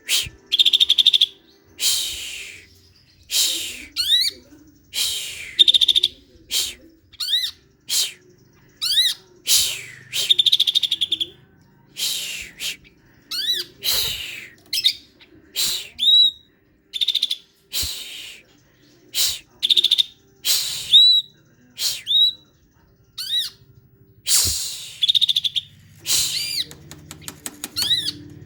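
Green leafbird (cucak ijo) singing energetically in short, loud phrases about a second apart: sweeping whistled notes and rapid trills, one phrase after another.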